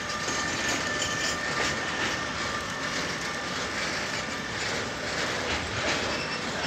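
Electric freight train rolling through a station: a steady rumble of wheels on rails with a light clatter over the rail joints. A thin high whine fades out in the first couple of seconds.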